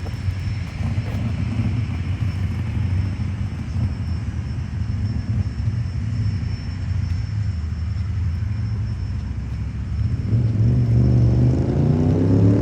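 Car engines rumbling steadily as cars cruise past. About ten seconds in, one car's engine gets louder and rises in pitch as it accelerates past.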